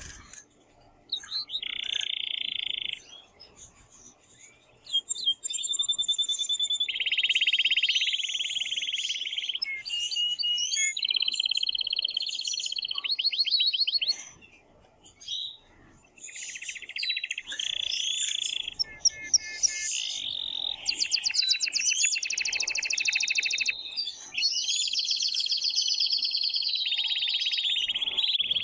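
Male canary singing loudly in long trilled rolls, each a fast run of one repeated note held one to three seconds before switching to another, with brief breaks between phrases. It is the excited breeding song of a male canary.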